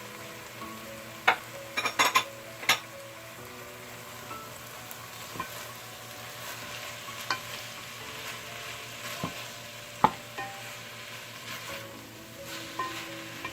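Chicken, onion and broccoli sizzling in oil in a frying pan while a spoon stirs them, with a few sharp knocks of the utensil against the pan in the first few seconds and one more about ten seconds in.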